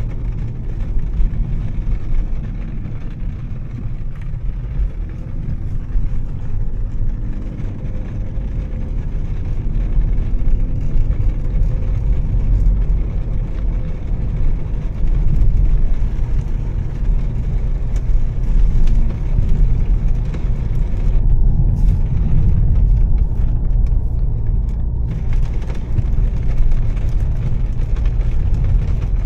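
Volvo S60 T6's turbocharged inline-six, fitted with a Heico aftermarket exhaust, running while the car is driven on a wet road: a steady low engine and road rumble with a fainter hiss above it.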